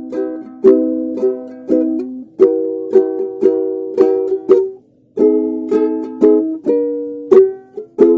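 Ukulele strummed in chords, playing a song with a steady strumming rhythm; it stops briefly about five seconds in, then goes on.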